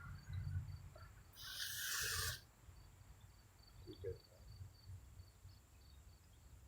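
Faint crickets chirping in a steady repeating trill, with a short hiss lasting about a second, starting about a second and a half in.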